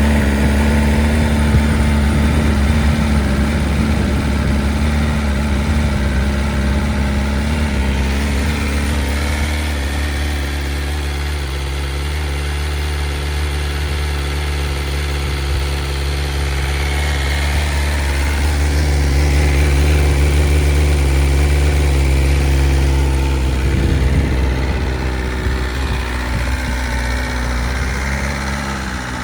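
A 2023 BMW S1000RR's inline-four engine idling steadily just after a cold start. It holds a normal idle speed rather than the high cold-start rev, with small changes in speed along the way.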